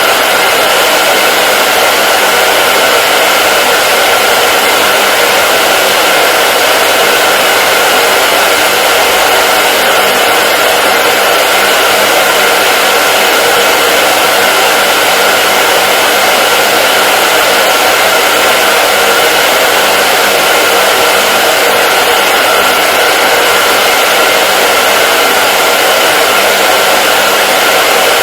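Hair dryer running continuously: a loud, steady rushing hiss of air with a faint fixed whine, unchanging in level or pitch.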